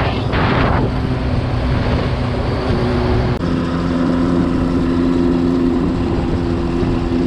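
A motor vehicle engine running steadily with low rumbling noise, its hum changing abruptly to a steadier, stronger note about three and a half seconds in.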